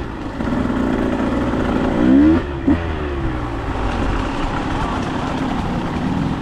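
Dirt bike engine running under the rider, revving up sharply about two seconds in and blipping once more just after.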